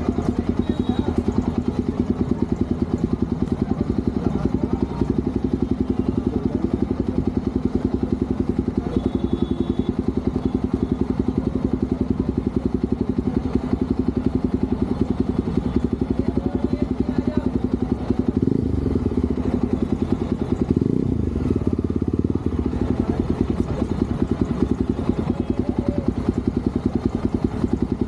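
Motorcycle engine running under way with a steady, rapid beat of exhaust pulses. The engine note shifts briefly about two-thirds of the way through, then settles back to the same steady pace.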